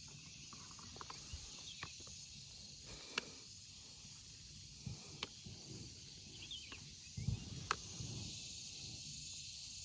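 Steady high-pitched chorus of insects outdoors, with scattered rustling and clicks of movement through vegetation; a couple of sharper clicks stand out about seven to eight seconds in.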